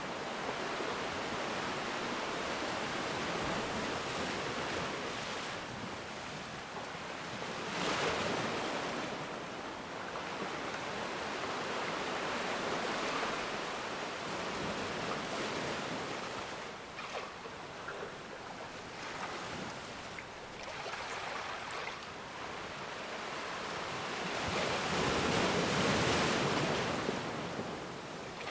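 Ocean waves washing onto a shore, a continuous surf that swells and ebbs, with one wave breaking at about eight seconds and the loudest surge near the end.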